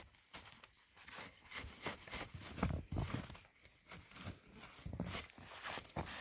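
Footsteps crunching in snow, an uneven series of soft crunches and scuffs.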